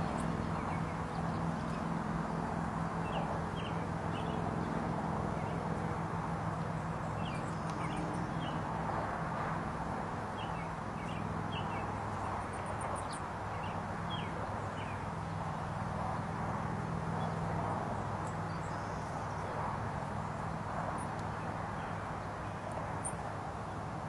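Short bird chirps scattered throughout over a steady low hum and rushing noise.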